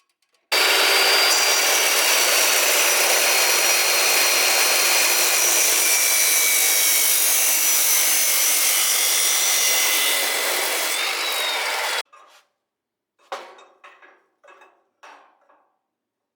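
Power tool working under load: a loud, steady rasping noise with a faint high whine. It starts abruptly about half a second in and stops abruptly about twelve seconds in, followed by a few short, faint noises.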